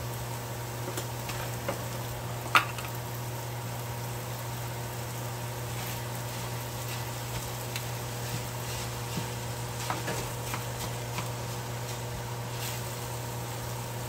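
Chopped kimchi, onion, eggplant and spinach sizzling as they stir-fry in an oiled frying pan, over a steady low hum. Now and then a utensil clicks against the pan, the sharpest click about two and a half seconds in.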